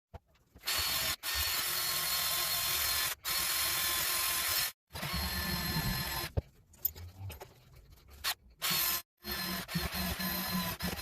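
A power tool running in several separate stretches, each starting and cutting off abruptly, with quieter, patchier mechanical noise in the later part.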